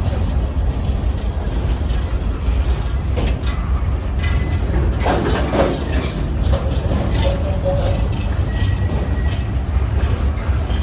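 Train running with a steady low rumble, with a few brief faint tones partway through.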